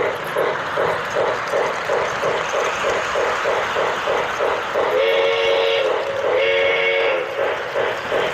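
Lionel LionChief O gauge 4-4-0 model steam locomotive running with its electronic chuffing at about three beats a second over the rolling hiss of wheels on track, sounding two whistle blasts from its speaker, a longer one then a shorter one, past the middle.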